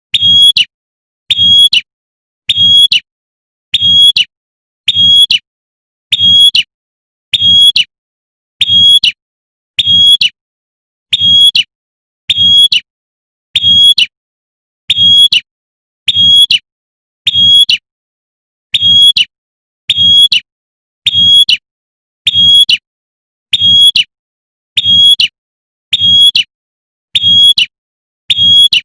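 Female prinia (prenjak) giving its sharp 'tembakan' call over and over, a short high note about every second and a quarter: the call a female uses to summon a male.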